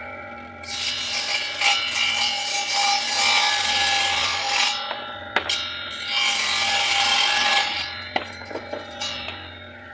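Homemade circular bench saw driven by an old washing-machine motor, cutting in two long passes over a steady motor hum, with a sharp click between the passes.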